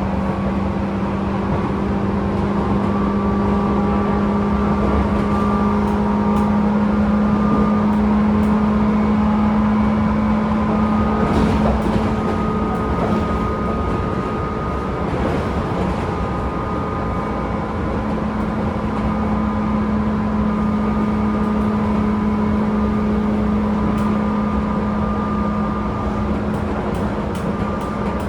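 Tobu 10000 series electric train with field-chopper control, running as heard from inside a motor car: a steady low hum with fainter higher tones, a few sharp clicks, and the hum dropping away for a few seconds partway through.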